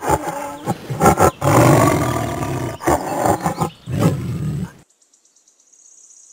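Ibis giving a series of loud, harsh, guttural croaking calls with short breaks between them, stopping about five seconds in. A faint, rapid, high trill follows near the end.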